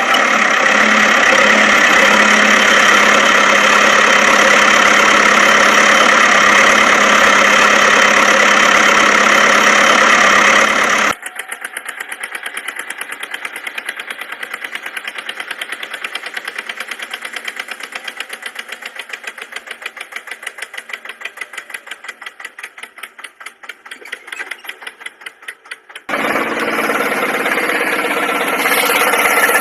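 Engine running steadily. About eleven seconds in it cuts abruptly to a rapid chugging pulse that slowly fades. Near the end a steady running sound returns just as abruptly.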